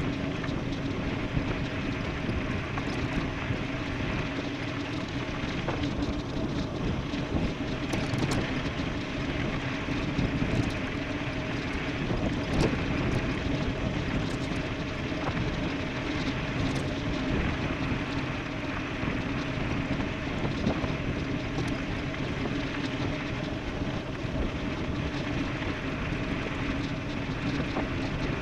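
Wind rushing over the microphone and tyre roar of an e-bike riding fast downhill on pavement, with a steady hum running under it.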